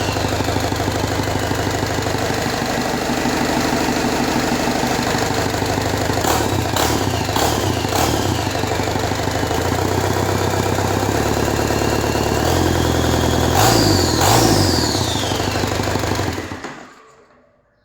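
Cummins B3.3 four-cylinder turbo diesel running, blipped on the throttle several times, with a high whine falling away after each blip. It is shut off near the end and runs down to silence.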